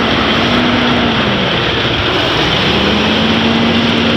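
Heavy truck engine running with a steady drone over loud road and wind noise. The drone fades out about a second and a half in and returns a second later.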